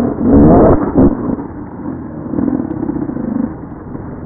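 Enduro motorcycle engine revving: two sharp blips of throttle in the first second or so, then a steadier running note that drops back to idle near the end.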